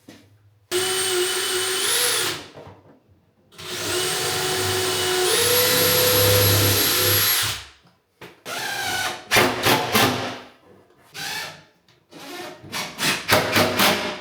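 Cordless track saw motor running in two long bursts with a steady whine, the second stepping up in pitch partway through, followed by a series of short, choppy bursts of tool noise.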